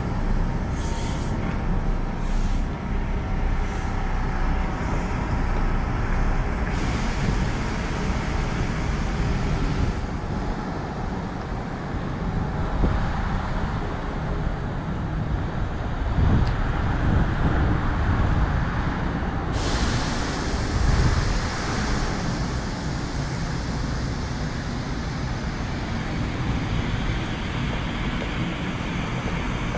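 Kintetsu 1010 series electric train in motion, heard from inside behind the driver's cab: a steady rumble of wheels on the track, with a few clicks in the first seconds.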